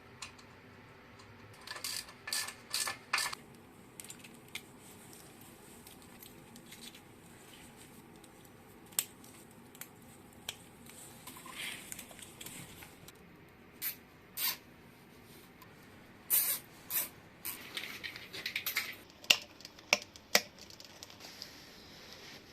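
Workshop handling noises: scattered sharp clicks and taps with a few short hissing bursts, clustered near the start and in the second half, over a faint steady hum.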